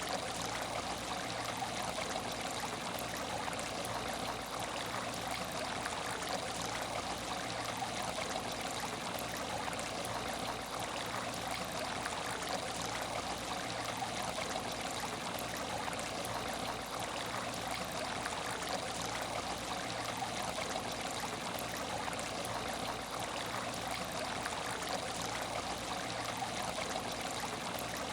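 Water trickling steadily in an empty aquarium tank, an even, unbroken flow.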